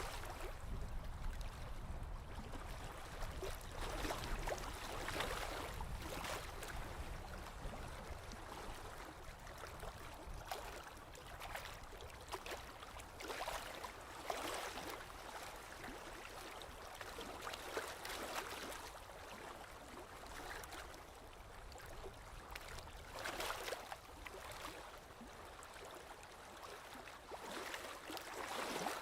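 Small waves of lake water lapping on the shore in irregular soft splashes every second or two. A low rumble runs underneath at first and fades out partway through.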